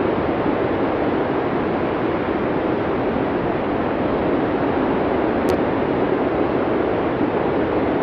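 Steady blizzard wind, an even, unbroken rush with no distinct gusts. A single faint tick about five and a half seconds in.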